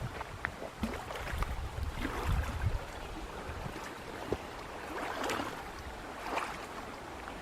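Wind gusting over the microphone outdoors, with irregular low rumbling buffets and faint rustling.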